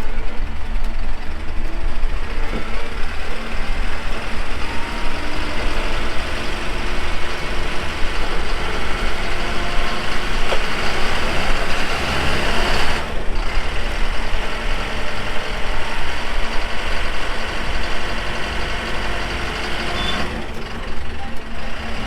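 Truck engines running steadily under load during a recovery pull of a truck stuck to its differential in mud.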